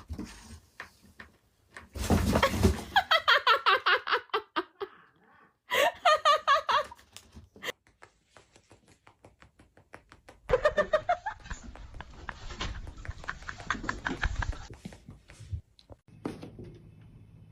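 A person laughing hard in three bouts of quick, pulsed 'ha-ha' bursts.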